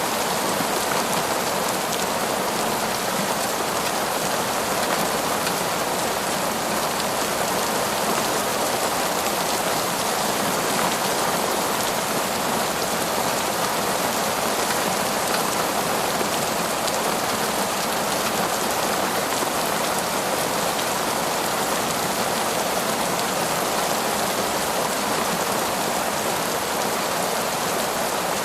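Heavy, torrential rain falling steadily, a dense even patter with no thunder.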